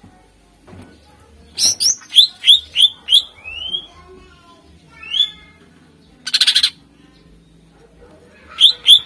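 Greater green leafbird (cucak ijo) singing loud, clear whistled notes that slide sharply in pitch. A quick run of them comes about two seconds in, a short harsh rattling burst about six seconds in, and another rapid flurry near the end.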